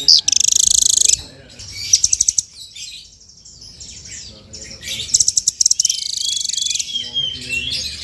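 Songbird singing, the 'burung fighter': fast, high, buzzy trills and rattles, a short pause about a third of the way in, then a run of quick slurred whistles and more trills.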